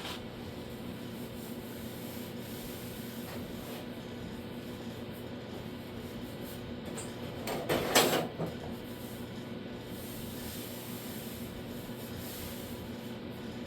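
Steady workshop hum with a short, rough scraping or handling noise about eight seconds in.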